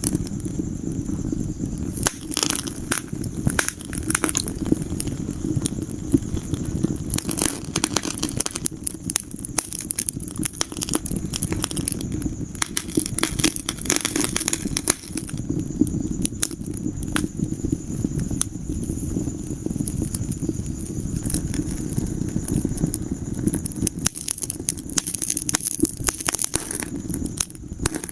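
Wood fire crackling: irregular sharp snaps and pops, in clusters, over a steady low rumble of burning.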